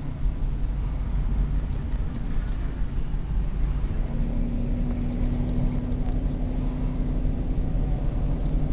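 Car driving, with a steady low rumble of engine and road noise. A steady hum joins about four seconds in and fades out about three seconds later, with a few faint light clicks over the top.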